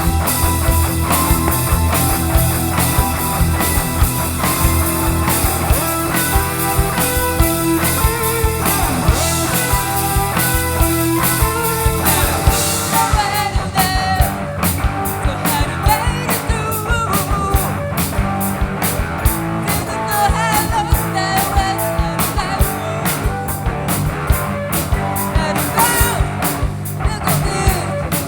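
Live rock band playing, recorded from the mixing desk: a sustained instrumental vamp, then about twelve seconds in a hard, steady drum beat kicks in and a singer comes in over the band.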